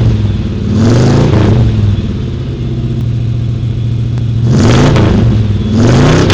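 A car engine idling and being revved three times, the pitch rising and falling back with each blip of the throttle.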